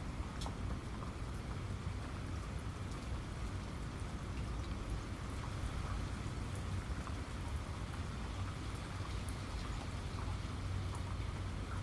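Steady rain with scattered drops ticking sharply on a surface, over a low rumbling wash.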